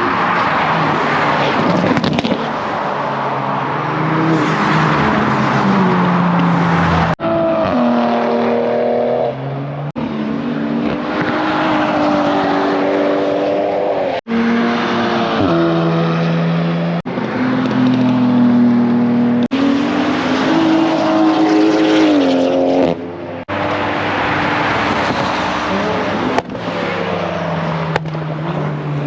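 Car engines revving and running, their pitch climbing and dropping, over a loud rushing noise, in a string of short clips cut together every few seconds.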